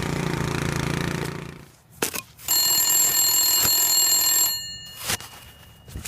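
A ringing tone made of many steady tones, like a telephone bell, lasting about two seconds and cutting off suddenly, after a shorter humming sound at the start.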